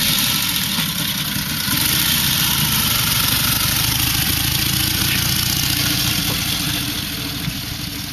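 1927 AJS H1's side-valve V-twin engine running steadily with a rapid low exhaust pulse, growing quieter near the end.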